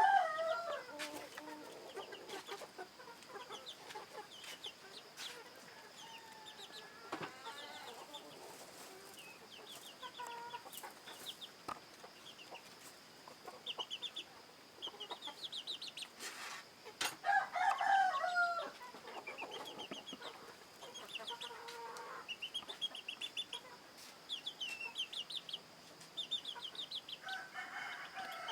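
Free-range village chickens clucking and calling, loudest about seventeen seconds in and again near the end. Runs of quick high chirps recur throughout over a faint steady high tone.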